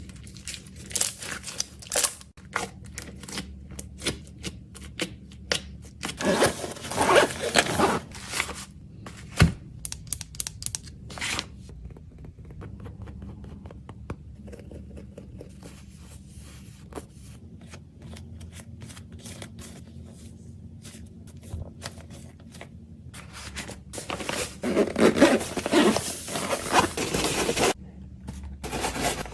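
Plastic packaging crinkling and tearing as fidget toys are unpacked and packed, with scrapes and sharp clicks of items being handled and set down. The rustling is busiest about a quarter of the way in and again near the end.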